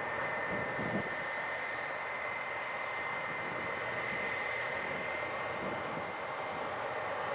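Boeing 717's Rolls-Royce BR715 turbofan engines running steadily at taxi power: a rushing jet noise with a held high whine, and one brief knock about a second in.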